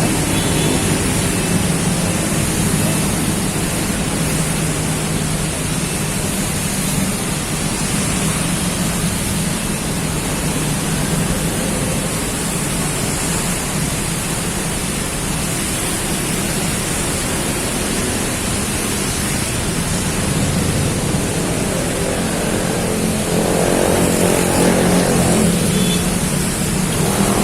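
Heavy downpour, a steady loud rush of rain, with a low engine hum of traffic underneath that swells briefly near the end.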